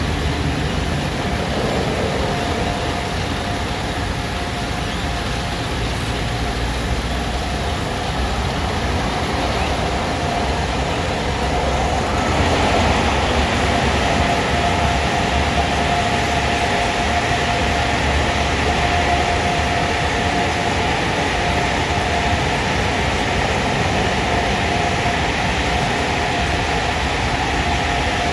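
Automatic car wash machinery running: a steady mechanical noise with a whine, growing hissier about twelve seconds in.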